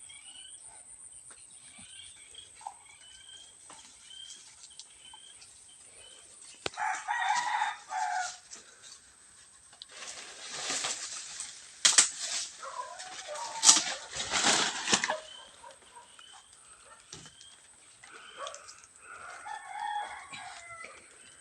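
A rooster crows about seven seconds in, and again more faintly near the end. Between the crows come several seconds of loud rustling with sharp knocks, and faint repeated small chirps sound in the first few seconds.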